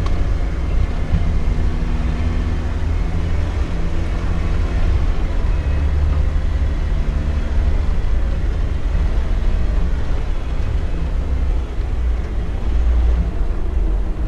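Off-road Jeep's engine running at low revs, a steady low rumble whose pitch shifts a little as the throttle changes.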